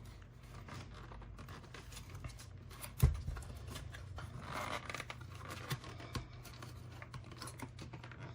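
Hands handling a plastic hard-drive enclosure and its parts: light scratching and small clicks over a low steady hum, with one sharp knock about three seconds in.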